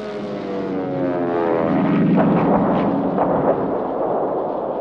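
Propeller aircraft engine whose pitch falls steadily as it passes or dives, swelling into a loud rumble with a few sharp cracks about two to three seconds in.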